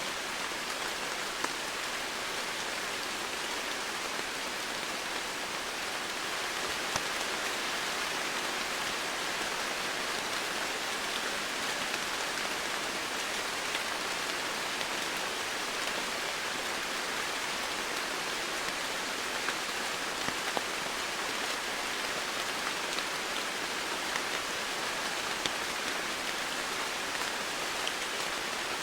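Steady, even rain hiss, with scattered sharp ticks of single drops striking close by.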